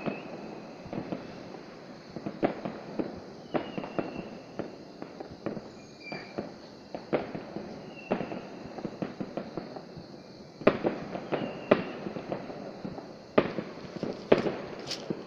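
Distant New Year's Eve fireworks bursting: scattered sharp bangs at irregular intervals, coming in quicker clusters about two-thirds of the way through and again near the end.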